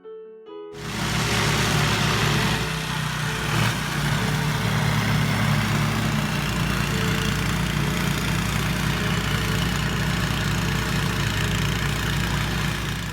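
An engine running steadily and loudly, with a rushing noise over it, cutting in abruptly about a second in.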